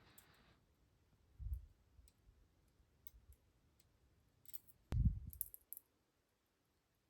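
Small clicks and taps of hands handling plastic model parts and tools on a workbench, with a low thump about a second and a half in and a sharper click and knock near five seconds.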